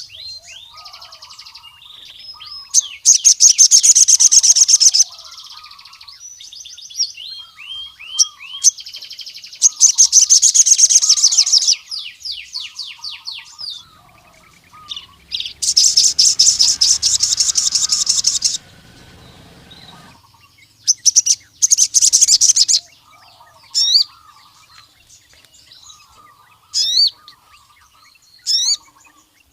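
Male crimson sunbird (sogon) singing. Loud, rapid high trills about two seconds long come four times, with quick slurred chirps between them and single sharp rising notes near the end. Fainter, lower chirps run underneath.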